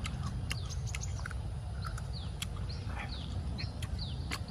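Small birds chirping: short, quick falling chirps repeated throughout, over a steady low rumble, with a few sharp clicks scattered among them.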